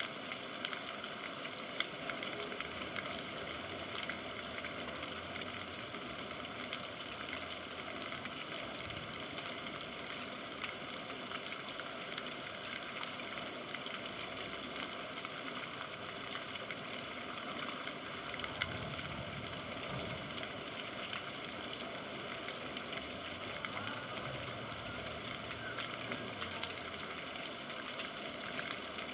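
Rain falling steadily, an even hiss with scattered sharp drop ticks.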